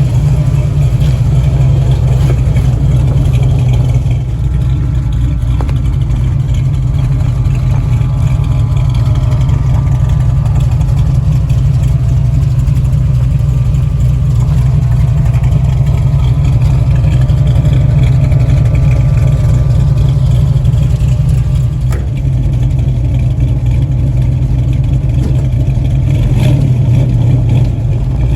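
Carbureted 502 big-block Chevrolet V8 idling steadily as it warms up after a cold start, with the choke still working.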